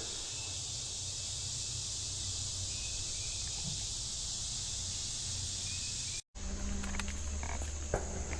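Steady, dense high-pitched insect chorus. About six seconds in it cuts off suddenly and gives way to a different steady low hum with a thin high whine.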